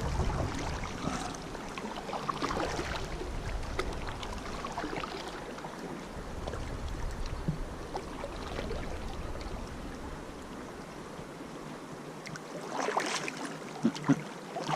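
Kayak paddling on a flowing river: the paddle dipping and water trickling and running against the hull. A louder burst and two sharp knocks come near the end.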